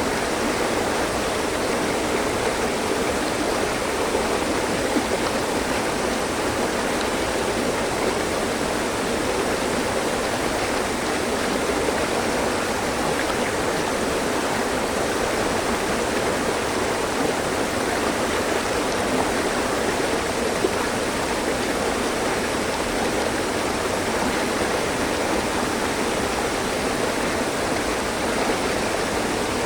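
Mountain stream flowing, a steady, even rush of water over rocks.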